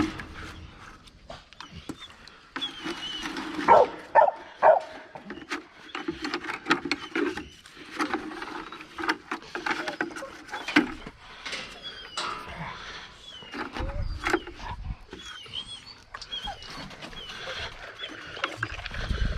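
Dogs eating from their bowls: steady chewing, crunching and snuffling with many short clicks and knocks, the sharpest a little under 4 and 5 seconds in.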